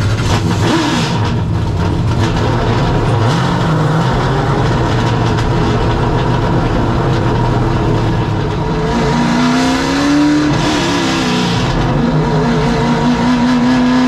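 A field of late model stock car V8 engines running together just after being fired up, idling loudly with revs rising and falling about two-thirds of the way through.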